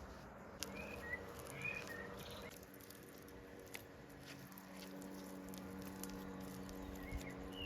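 Outdoor ambience: a few short bird chirps over a low steady hum, with scattered small clicks and a soft patter.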